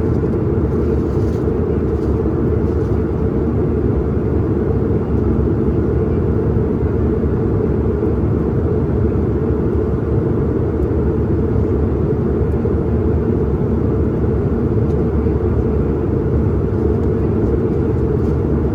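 Steady airliner cabin noise in flight: a constant low rumble of engines and airflow heard from inside the cabin.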